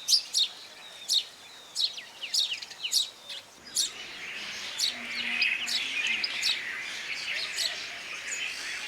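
House sparrows chirping: a steady run of short, sharp chirps, becoming a busier chatter of many overlapping calls from about four seconds in.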